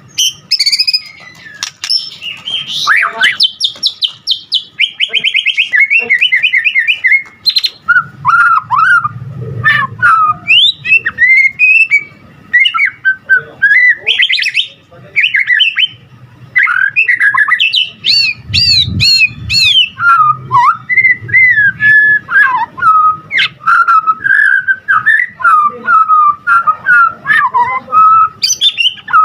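White-rumped shama (murai batu) singing without pause: a fast, varied song of sliding whistles and quick trills, full of phrases mimicked from other birds.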